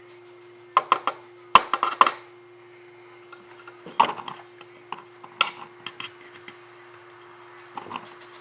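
Painting gear being handled: several quick clusters of sharp taps and clinks, over a steady faint hum.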